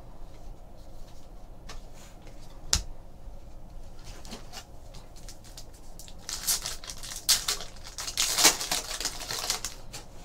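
Trading-card pack wrappers crinkling and being torn open while cards are handled, with a sharp tap a little under three seconds in and denser, louder crinkling in the second half.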